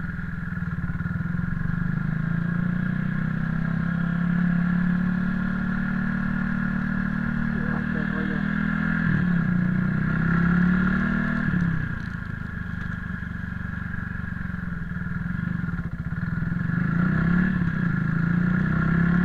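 Motorcycle engine running under way. Its pitch drops sharply about halfway through and again a few seconds later, and the engine is quieter for a while before building up again near the end.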